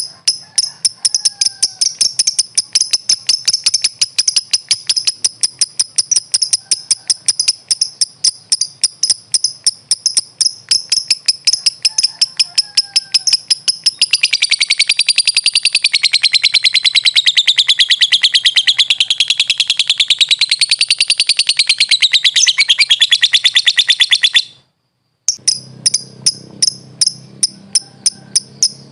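Lovebird calling: a fast run of sharp, high chirps, several a second, then about 14 s in a long, continuous wavering chatter that sweeps up and down in pitch and breaks off suddenly near the end. After a short gap the chirping starts again over a low hum.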